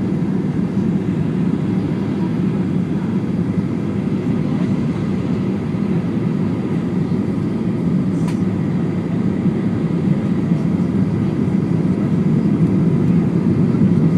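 Steady cabin rumble of a Boeing 737-800 in flight, heard from inside the passenger cabin: engine and airflow noise, growing slightly louder near the end, with a faint click about eight seconds in.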